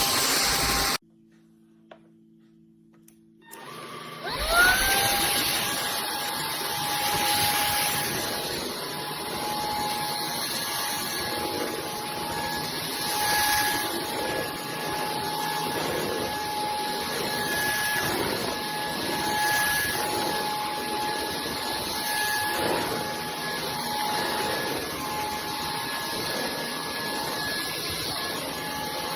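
SKIWEC cordless stick vacuum running, cut off about a second in; after a few seconds of near silence its motor spins up with a rising whine and then runs steadily, a high whine over the rush of air.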